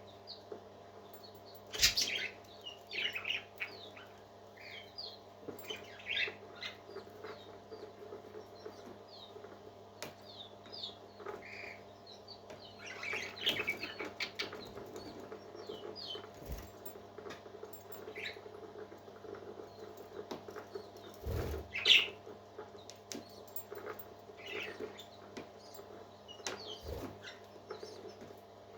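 Baby parrot chicks peeping in short, high squeaks at irregular intervals over a steady low hum, with a few soft knocks in between. The loudest squeaks come about two seconds in and again late on.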